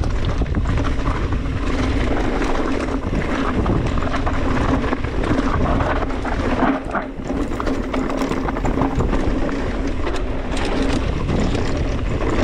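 Steady wind buffeting an action camera's microphone as a mountain bike rides down a dirt trail, with tyre noise and many short rattles and knocks from the bike.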